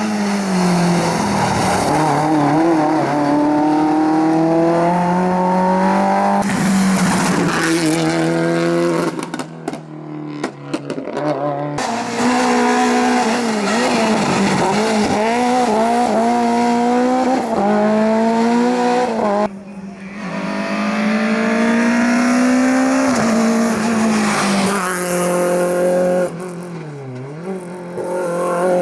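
Rally cars at full attack on a stage: engines revving hard, climbing in pitch and dropping back at each gear change, with tyre squeal. The engine sound falls away briefly about a third of the way in, again about two-thirds in, and once more near the end.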